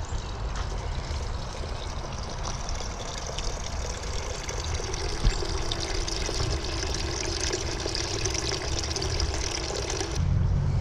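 Steady trickling of running water, with a low rumble of wind on the microphone coming in suddenly near the end.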